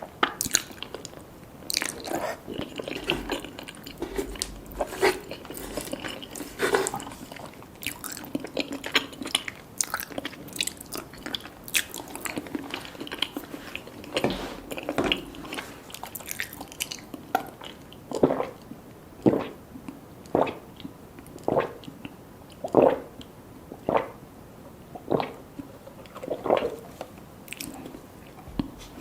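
Close-miked eating sounds: biting and chewing food with crisp crunches, settling in the second half into evenly spaced chewing about once a second.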